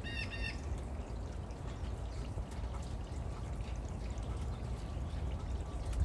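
A bird gives a brief chirp at the very start, over steady low background noise.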